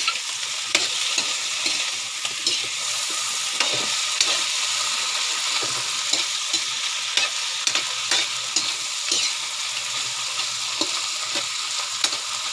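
Wild pig meat with tomatoes sizzling in a metal wok, stirred with a spatula that clicks and scrapes against the pan many times over a steady frying hiss.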